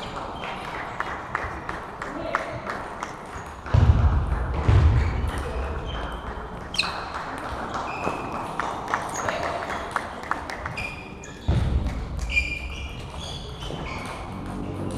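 Table tennis balls clicking off bats and tables in a large sports hall, over a background of chatter. Two heavy low thuds, about four seconds in and again near eleven and a half seconds, stand out as the loudest sounds.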